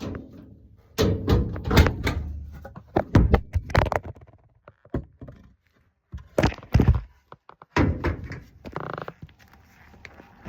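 A run of knocks and thuds, like objects being handled and set down, in several quick clusters.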